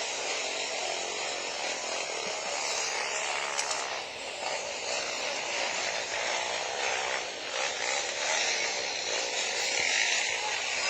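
Racing motorcycle engines running at high revs, several overlapping, their pitch wavering up and down as they throttle on and off.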